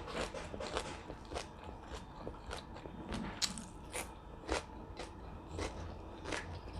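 Close-up chewing and biting of crunchy food: a string of irregular crisp crunches, two or three a second.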